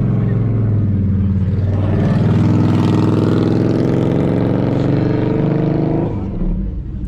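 Car engine running under acceleration, its pitch climbing gradually, then dropping away about six seconds in.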